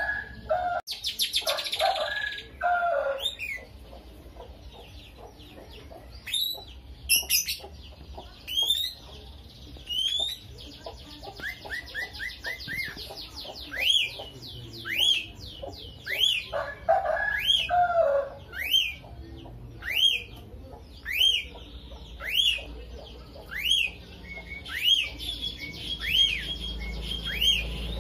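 Lovebird singing: a varied run of chirps and fast trills, then a steady series of sharp rising-and-falling chirps about one a second. A lower, harsher call comes near the start and again about two-thirds of the way through.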